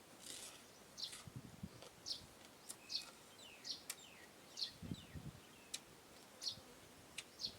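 A bird chirping over and over, with short high falling chirps about once a second. Sharp clicks and a couple of low thumps sound between them.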